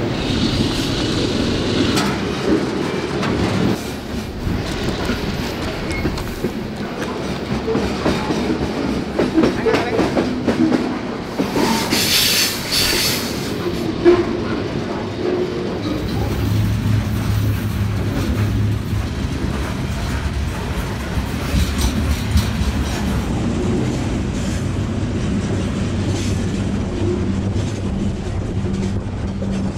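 Freight train rolling at speed, heard from on board a hopper car: a steady rumble and clatter of wheels over the rails, with a brief high screech about twelve seconds in and a low steady hum joining about halfway through.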